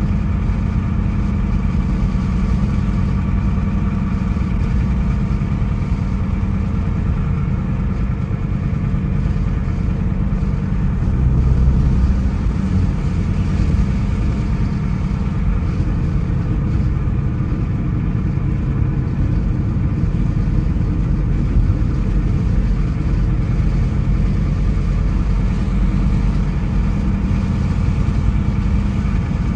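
A car driving: steady engine and road rumble, mostly low, with a brief louder rumble about twelve seconds in.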